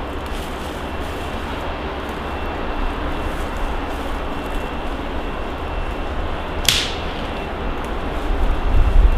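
Wind buffeting the microphone over a steady outdoor hiss. About two-thirds of the way through, one brief sharp swish comes as a stick is yanked out of the ground.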